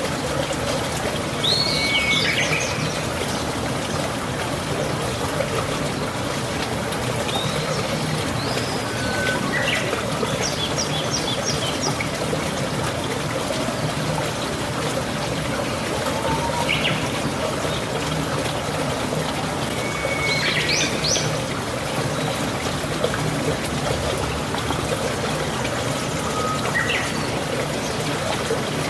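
Steady rain with water trickling and pouring, while a bird chirps every few seconds in short runs of quick rising and falling notes and stuttered trills.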